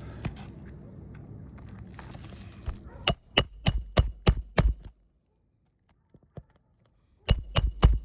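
Hammer driving roofing nails into a shingle: a quick run of six sharp, ringing metal-on-metal strikes about three a second, then after a pause another short run of strikes near the end.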